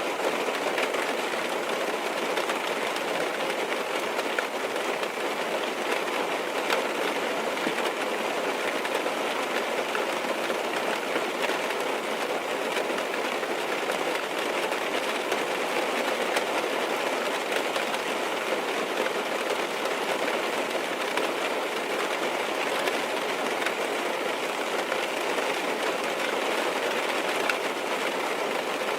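Steady rain falling on a car's roof and windows, heard from inside the car as an even patter with faint scattered taps.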